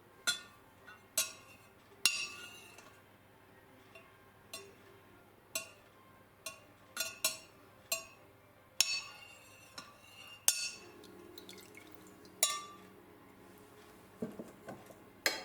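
A spoon stirring a jug of lemonade, clinking against the side of the container over a dozen times at irregular intervals, each clink ringing briefly.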